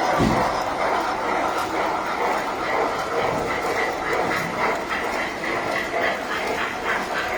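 Tinplate model trains running on the layout's track: a steady rumble from wheels and motors, with a quick, regular clicking of wheels over rail joints in the second half.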